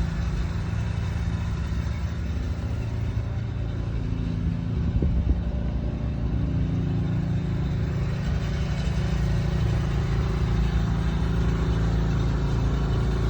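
Steady low mechanical hum with a pitched drone, growing a little louder about two-thirds of the way through.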